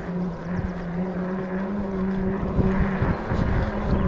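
Dirt bike engine running at a steady pitch that steps up slightly about two seconds in, then turns rougher and uneven near the end.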